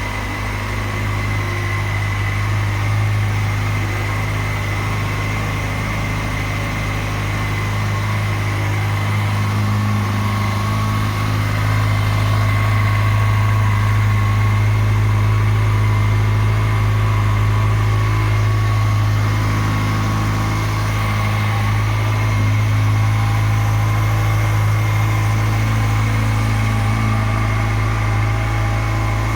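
Kawasaki Ninja ZX-6R's inline-four engine running steadily at a constant speed, with a strong low hum and a steady higher whine.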